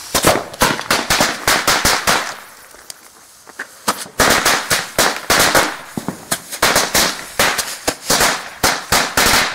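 Fireworks going off in quick, irregular sharp bangs: one run of bangs, a pause of about a second and a half, then a longer run.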